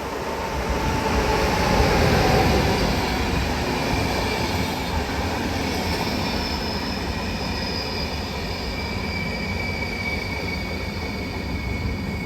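Train passing close by, loudest about two seconds in, then running on as a steady rumble with two high whining tones that slowly fall in pitch.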